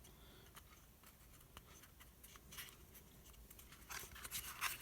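Faint handling sounds of a chainsaw's oil-reservoir gasket and side cover being fitted: a few scattered light ticks and scratches, busier near the end.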